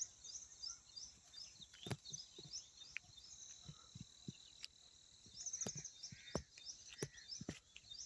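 Small birds chirping in quick, repeated, high short notes, over a steady thin high tone, with scattered soft knocks.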